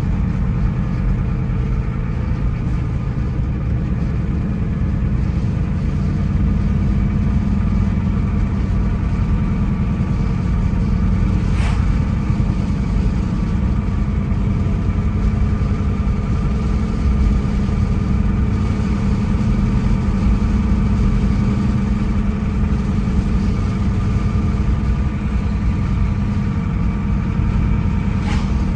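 Car driving along at a steady pace: continuous engine and road noise, with a short click about twelve seconds in and another near the end.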